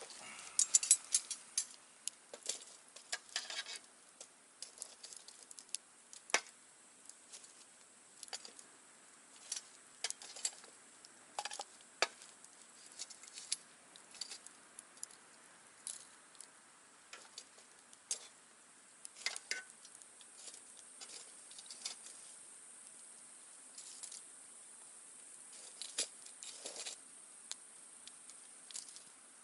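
Wood campfire crackling: irregular sharp pops and snaps of burning wood over a faint steady hiss, with a quick cluster of louder pops about a second in.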